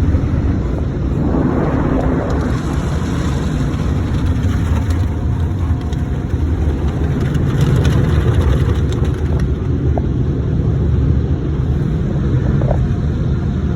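Automatic car wash machinery running, heard from inside the car: a steady low rumble, with a hiss swelling about a second or two in.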